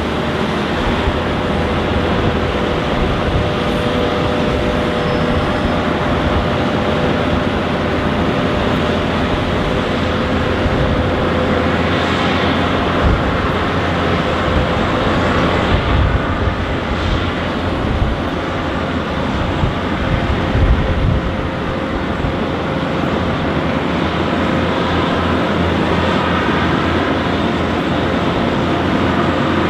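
Airbus A330-300 jet engines running at a steady level: a broad rush of jet noise with a steady whine, over an uneven low rumble.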